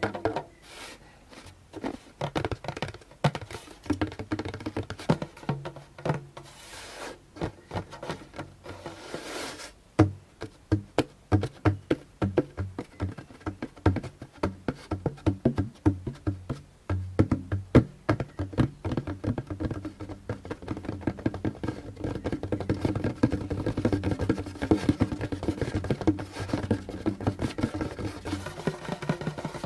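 Hands and fingers tapping and drumming on a djembe's skin, with deep thuds among lighter taps. The taps come sparse and uneven at first, with a couple of short rubbing strokes, then turn into fast, continuous finger drumming about halfway through.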